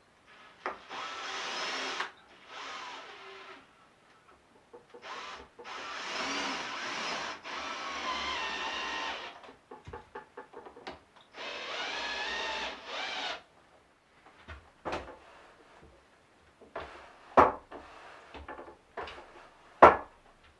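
A drill working wood, running in four bursts of one to four seconds, its pitch wavering as it slows and speeds up; then several sharp knocks, the loudest near the end.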